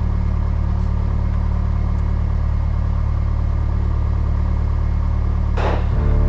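Cessna 172S's four-cylinder Lycoming piston engine and propeller running with a steady drone and a slight regular pulse. Near the end a falling whoosh sweeps down, and music begins just after it.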